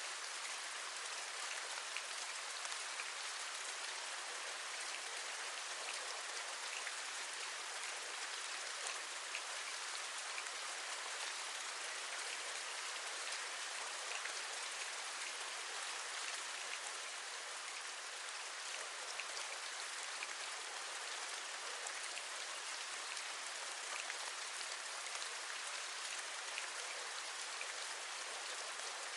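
Steady rain hissing, with scattered raindrops tapping on a window.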